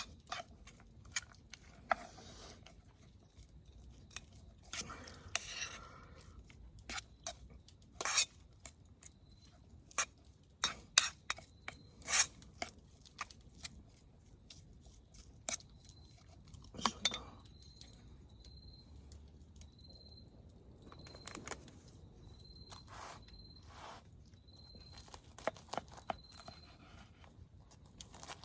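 Scattered light clicks, taps and scrapes of handling camp tableware and food, loudest about eight to thirteen seconds in. From about nine seconds in, a faint short high note repeats roughly once a second.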